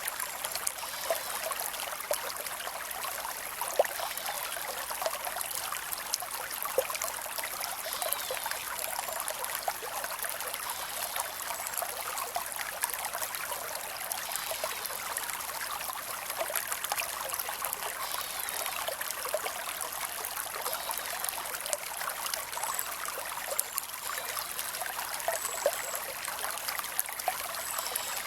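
A creek flowing steadily: a constant trickling and babbling, with many small splashes and drips.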